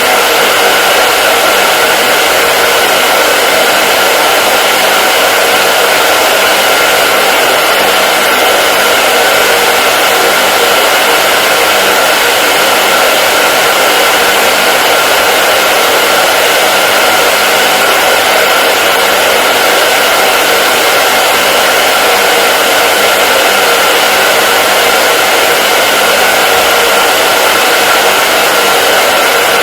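Hair dryer blowing steadily: a loud, even rushing noise with a faint steady motor hum, unchanging throughout.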